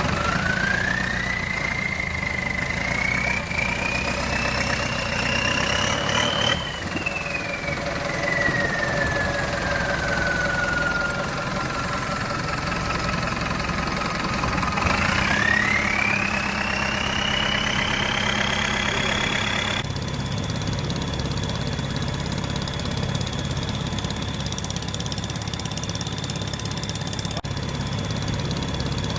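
Motorcycle engine running under way, its whine rising for several seconds, falling off, then climbing again and holding steady, over a constant low rumble.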